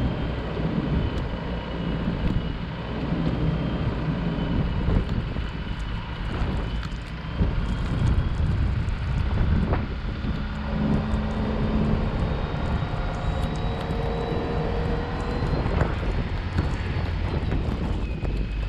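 Car driving through a snowstorm: a steady drone of engine and road noise, with a faint whine that rises in pitch in the second half.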